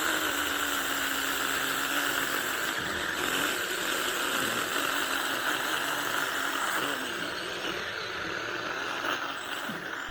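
Small 6-inch battery-powered mini chainsaw running steadily as it cuts through the trunk of a Chinese tallow tree, its motor pitch sagging slightly as the chain bites into the wood.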